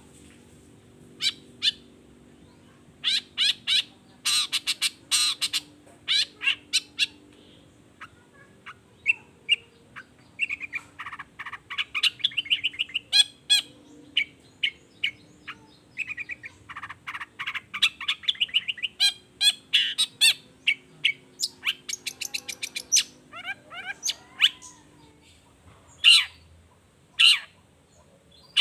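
Long-tailed shrike (cendet) in full song: runs of loud, sharp, harsh notes broken by short pauses, with two longer chattering trills midway.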